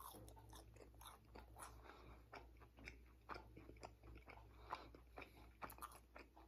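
Faint chewing of a bite of pompano fried in a crispy fish-fry coating: irregular soft crunches and clicks, a few a second.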